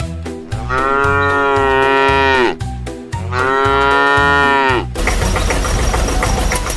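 A cow mooing twice, two long calls of about two seconds each that drop in pitch at the end, over a low, regular thumping beat. About five seconds in, a dense rattling noise with fast, even ticks takes over.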